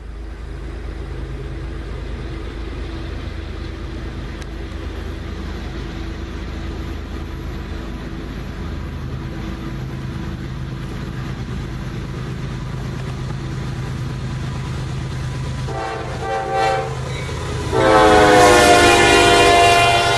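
GE Evolution Series diesel locomotives (ES40DC and ES44DC) of a loaded freight train approaching with a steady engine drone, then sounding the multi-note air horn: a short blast, then a long loud blast near the end as the locomotives pass.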